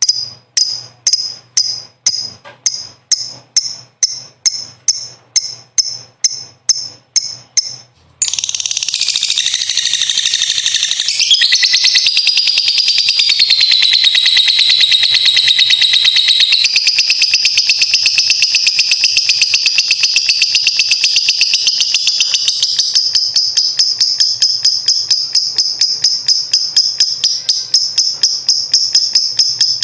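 Lovebird giving sharp high chirps, evenly spaced at about two or three a second, then about eight seconds in breaking into a long unbroken rapid trill: the 'ngekek panjang', the long chattering song prized by bird keepers.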